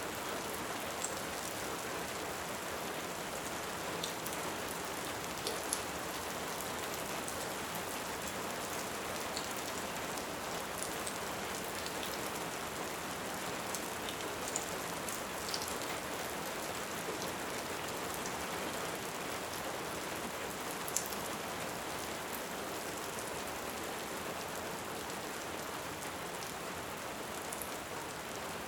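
Steady, even rain, with a few sharp, scattered pops of a crackling wood fire.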